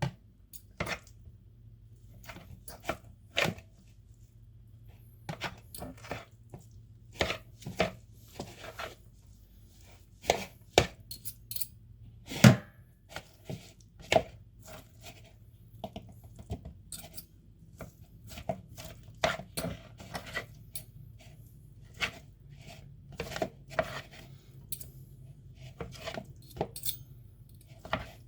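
Two forks shredding boiled chicken breast in a bowl, the tines clicking and scraping against the bowl at irregular intervals.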